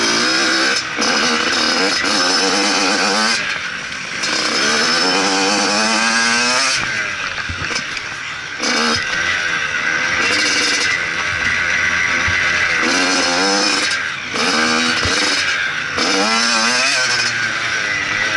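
Motocross bike engine revving hard and backing off again and again: the pitch climbs through each gear, then drops briefly on the shifts and on closing the throttle.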